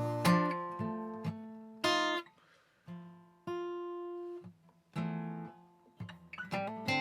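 Guitar playing a blues in F, picked notes and chords in short phrases with brief pauses between them, one note held about halfway through.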